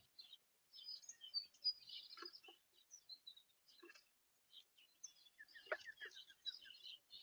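Small wild birds chirping and calling: many short, high chirps, faint, with a quick run of lower notes about five and a half seconds in.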